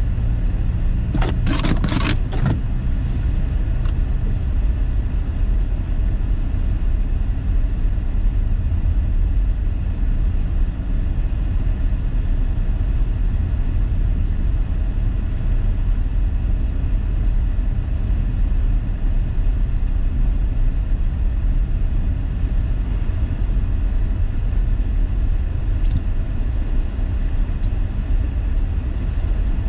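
Steady low rumble of a car driving on a snow-covered, poorly plowed road, heard from inside the cabin. A few short, sharp noises come about one to two seconds in.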